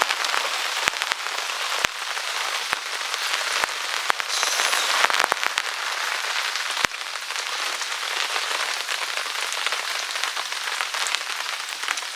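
Heavy rain pouring down, a dense steady hiss with scattered sharp taps of individual drops striking close by.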